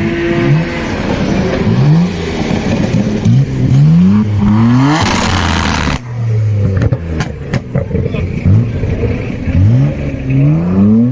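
Sports car engines revved in quick repeated blips, each one rising sharply in pitch and dropping back to idle, with sharp exhaust pops and cracks between revs.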